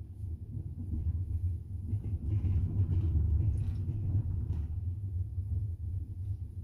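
Double-decker passenger train running on the rails, heard from inside the carriage: a steady low rumble that swells for a couple of seconds in the middle.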